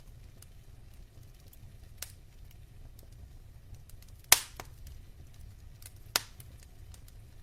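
Wood fire in a fireplace burning with a low rumble and small crackles, and three sharp pops from the burning logs, the loudest about four seconds in.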